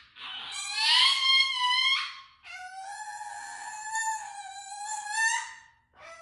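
A dog's long, drawn-out howling 'talk': two sustained calls, the first rising in pitch over about two seconds, the second held fairly level with small wavers for about three seconds before trailing off.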